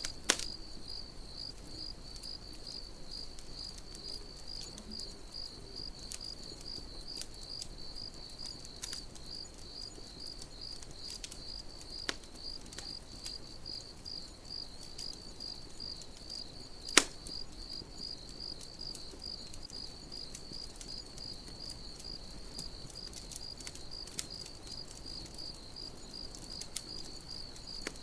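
Crickets chirping in a steady, even pulse throughout, over a campfire whose burning wood gives scattered sharp crackles and pops, the loudest about 17 seconds in.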